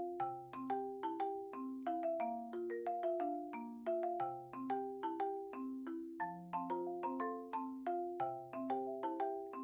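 Background music: a light, bouncy tune on a marimba-like mallet instrument, with quick struck notes that ring and fade over a lower bass line.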